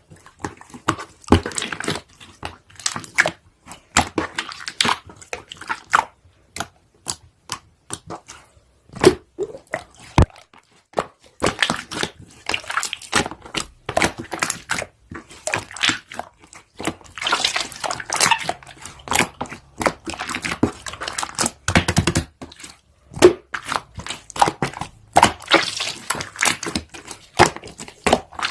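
Irregular close-up crinkling, crunching and clicking noises, coming in quick clusters with short pauses.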